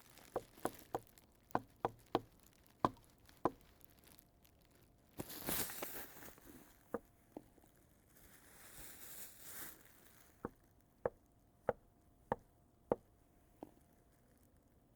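Sharp knocks or taps at irregular spacing, about fifteen in all: a quick run in the first few seconds, a few more, then another run near the end. Two short swells of rustling noise come in between them.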